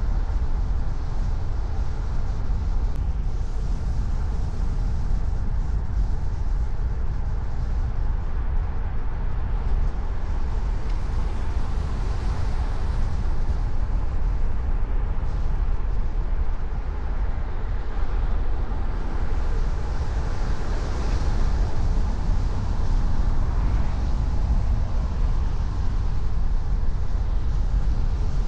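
Steady road and tyre noise of a car driving, a constant low rumble with no distinct events.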